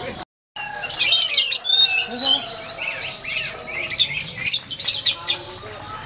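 Songbirds chirping and twittering in a dense run of short, high calls, after a brief dropout just after the start.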